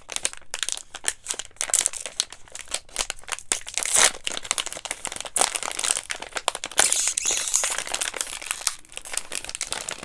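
Plastic snack pouch of granola cups being handled, with continuous irregular crinkling and crackling of the wrapper.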